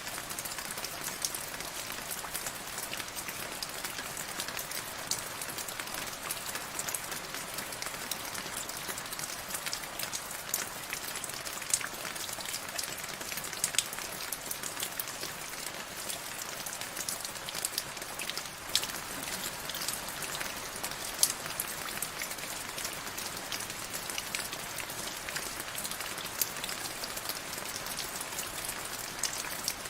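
Steady rain falling, a constant hiss with many separate drops ticking sharply on a hard surface.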